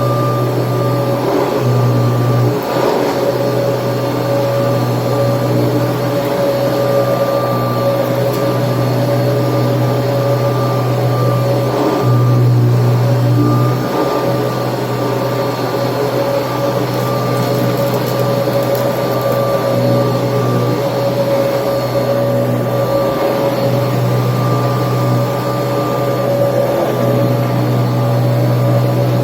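Kirby Tradition upright vacuum cleaner running steadily with its motor's whine, the low part of the sound rising and dropping a little every few seconds as it is worked.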